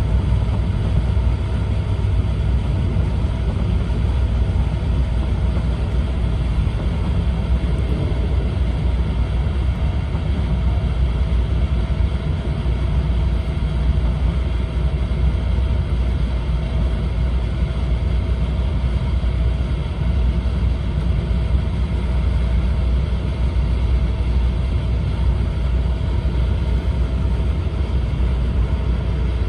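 Cabin noise of an E4 Series Shinkansen heard from inside its bilevel green car: a steady low rumble with a faint constant hum, unchanging throughout.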